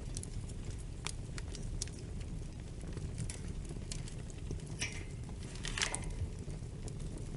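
Wood fire burning with a steady low rumble, crackling in scattered sharp snaps, a quick cluster of pops about five to six seconds in.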